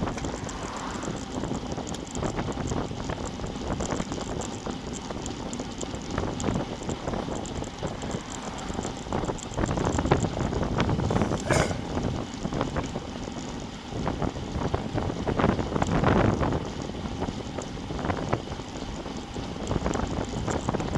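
Wind buffeting the microphone of a bike-mounted action camera while riding, over road and tyre noise, with louder gusts about halfway through and again later.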